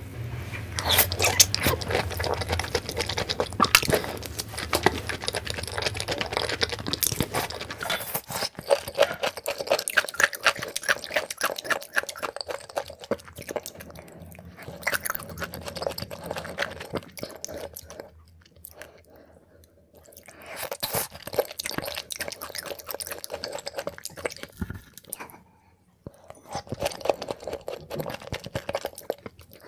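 Close-miked eating: wet chewing and biting with many small irregular clicks and crunches, first on large red prawns and later on slices of raw liver. The chewing pauses briefly twice in the latter part.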